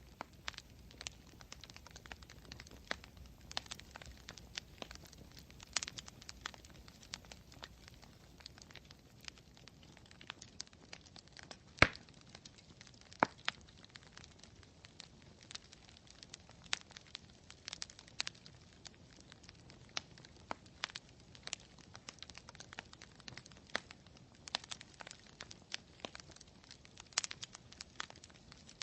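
Campfire crackling: burning wood gives irregular sharp pops and snaps, with one louder crack about twelve seconds in.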